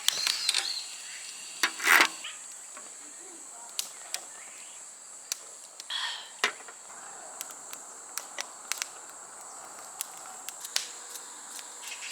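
Steady high-pitched insect chirring, with scattered sharp clicks and knocks over it and a louder brief rustle or clatter about two seconds in.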